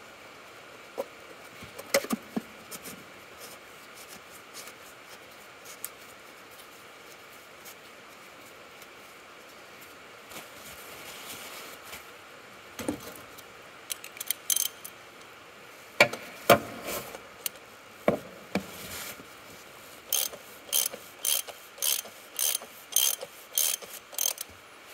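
Ratchet wrench on a socket, clicking in regular strokes a little under two a second from about twenty seconds in, as it screws the plastic oil filter housing back in. Before that come scattered knocks and clicks of tool handling.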